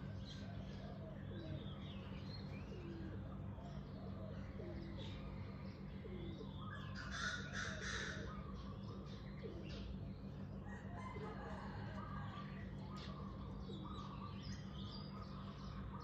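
Birds chirping and calling, with one louder, harsh call about seven seconds in, over a steady low hum.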